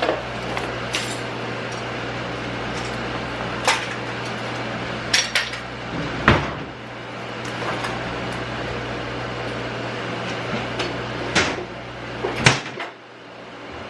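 Kitchen clatter: dishes, cutlery and cupboard doors knocking and clinking a handful of times over a steady appliance hum, which cuts out near the end.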